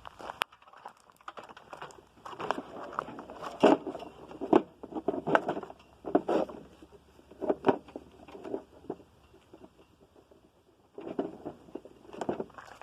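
Irregular crunching steps and taps, coming in uneven clusters with a quieter stretch near the end.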